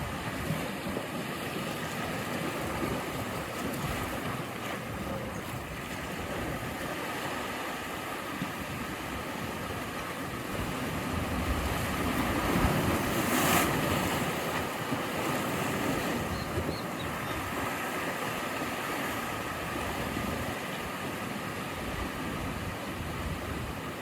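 Sea waves washing and breaking on the shore in a steady surf wash, with one wave swelling loudest about halfway through.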